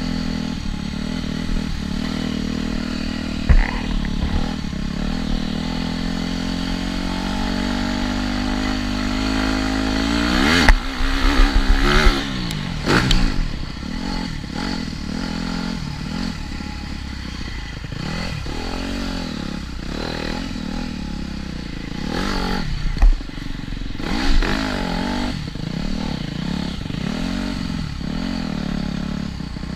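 TM Racing 250 Fi motocross bike's single-cylinder four-stroke engine under race riding, its pitch climbing steadily for about ten seconds as it accelerates. Around the middle comes a burst of clattering knocks. After that the engine revs up and down repeatedly, with a couple of sharp thumps.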